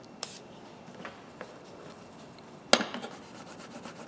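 Hand tools being handled on a workbench: a few light knocks, then one sharp clack a little past halfway. Faint rubbing starts again near the end.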